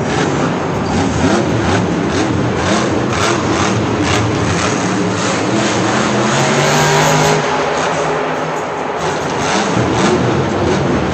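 Monster truck engine running loud, its pitch rising and falling as it revs.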